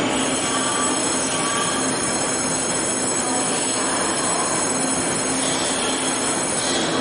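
TRA EMU800 electric multiple unit pulling out, its wheels rolling over the track with a steady high-pitched squeal of several tones held together.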